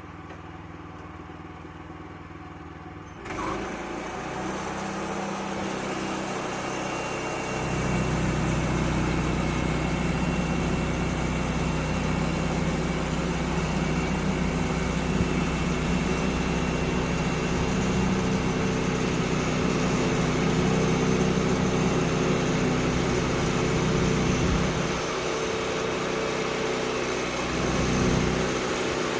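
Sawmill engine idling, then about three seconds in the sound jumps up and a high hiss comes in as the saw runs. From about eight seconds the engine runs louder and heavier, as when the blade is cutting through a log, easing off a few seconds before the end with a short swell just after.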